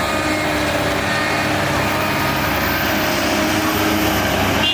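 Diesel engine of heavy earthmoving machinery running steadily with a loud, even mechanical noise.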